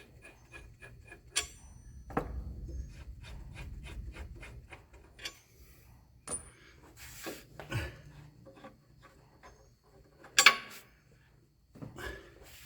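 Scattered clicks, taps and knocks of tools and metal parts being handled at a workbench, with a quick run of light ticks at the start and one sharp knock about ten seconds in.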